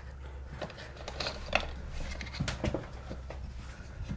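Faint scattered clicks and light taps of small plastic PEX bend supports being handled, over a low steady hum.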